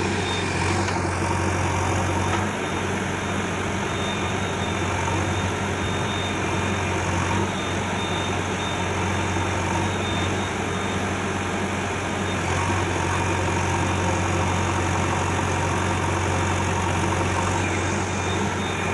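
Heavy diesel engine of earthmoving machinery running steadily at an even, unchanging speed.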